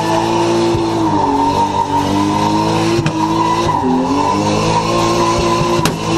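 Drift car's engine held at high revs, heard from inside the cabin, with a brief drop and recovery in pitch about four seconds in and tyres skidding under it.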